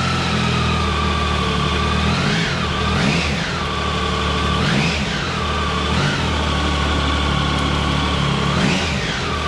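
Triumph Tiger 1050's inline three-cylinder engine idling and blipped on the throttle several times, the revs rising quickly and falling back to idle between blips.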